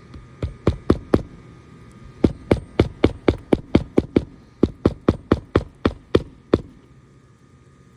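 Hammer striking roofing nails into asphalt shingles in quick runs of blows, about four a second, with short pauses between the runs; the last blow comes about six and a half seconds in.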